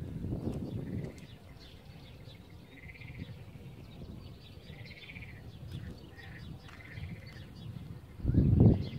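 Birds calling outdoors, with a series of short arched calls and chirps repeating every second or so over a low background rumble. Near the end comes a brief, loud, low rumble lasting about half a second.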